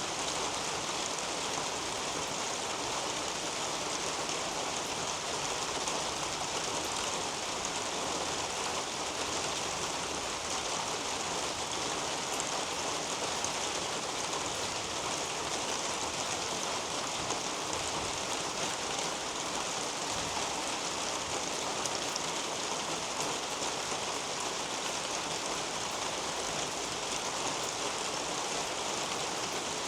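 Steady rain falling on garden leaves and foliage, an even patter of drops that doesn't let up.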